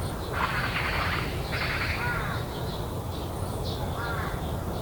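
Crows cawing, harsh calls in two close runs during the first half and one more about four seconds in, over a steady low background rumble.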